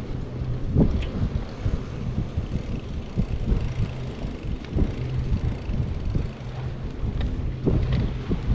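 Wind rumbling on the microphone of a camera riding along on a moving bicycle, with a few light knocks and rattles from bumps in the path.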